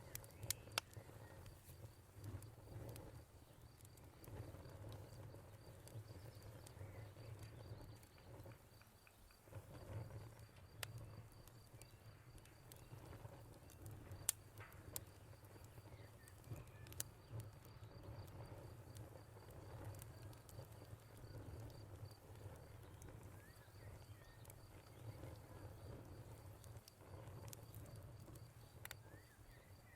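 Wood fire crackling with scattered sharp pops over a low, steady rumble, while a cricket chirps in a fast, even pulse that stops for a few seconds midway and then resumes.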